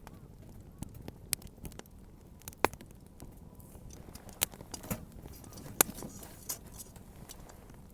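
Wood bonfire crackling, with irregular sharp pops and snaps, two of them louder about a third and three-quarters of the way through, and a faint hiss in the middle.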